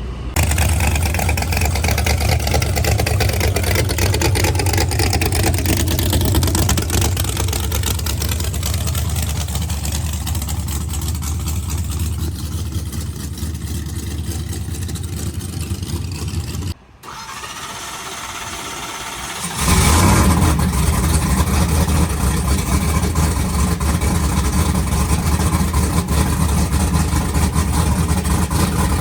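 Drag-racing truck engine turned over on the starter for about sixteen seconds without firing, to build oil pressure. After a short quieter gap it fires and runs steadily.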